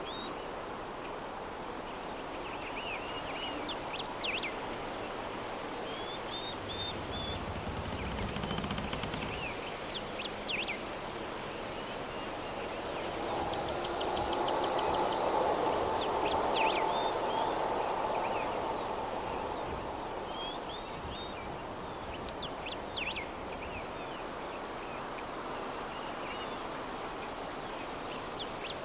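A soft breeze that swells into a stronger gust in the middle and then eases off. Small birds chirp in short bursts every few seconds.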